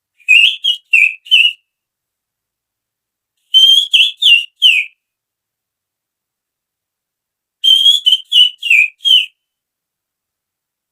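Finger whistling that imitates the chirping call of a female oriental magpie-robin (kacer): three bursts of four or five quick chirping whistles, a few seconds apart.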